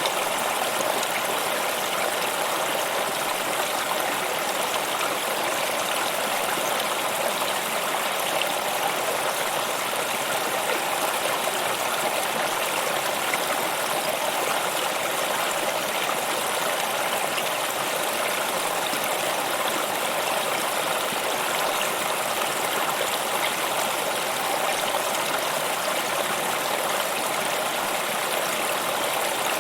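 Stream water flowing steadily over rocks, an even rushing babble with no change.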